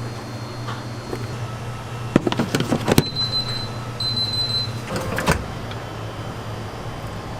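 A steady low machine hum, with a cluster of clattering knocks about two to three seconds in, a high steady beep-like tone just after, and another short clatter a little past five seconds.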